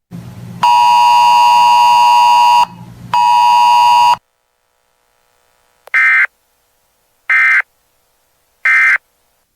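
Weather radio alert signals: a loud, steady buzzing electronic tone lasting about two seconds, a short break, then the tone again for about a second. After a pause come three short, identical data bursts about a second and a half apart, the Emergency Alert System end-of-message code closing the broadcast.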